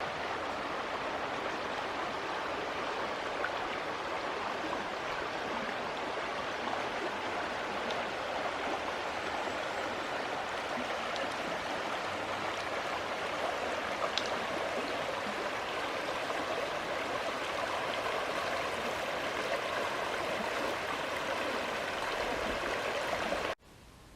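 A small stream flowing, a steady rush of running water that cuts off suddenly near the end.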